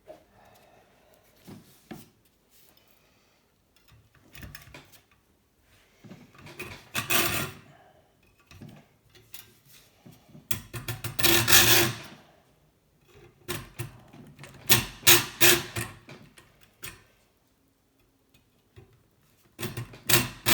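Hand saw rasping through the hard metal tube of a scrap kettle heating element in several short runs of quick strokes, with pauses between; the material resists the cut.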